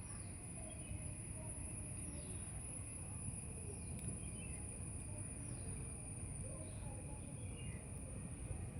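Outdoor ambience of insects: a steady high-pitched cricket-like trill, with short falling chirps repeating about every second and a half over a faint low rumble.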